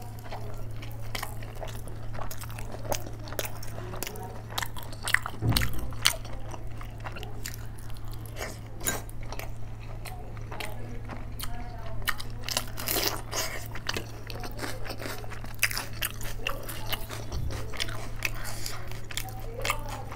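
Close-miked eating: a woman biting and chewing mouthfuls of rice, dal and curry eaten by hand, with many short wet mouth clicks and smacks over a steady low hum.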